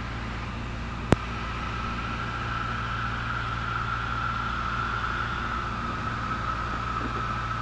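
Cessna 172N's four-cylinder Lycoming engine and propeller droning steadily in the cabin during the approach. A sharp click about a second in, then a steady high whistling tone that holds on to the end.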